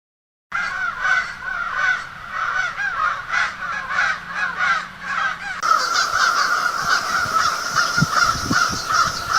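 Birds calling rapidly over one another in a dense run of short, repeated calls. About five and a half seconds in the sound changes to a steadier, higher-pitched chorus.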